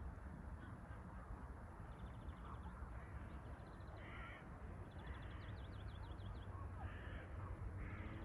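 Birds calling: short harsh caws repeating every second or two, with rapid runs of high chattering notes, over a steady low wind rumble.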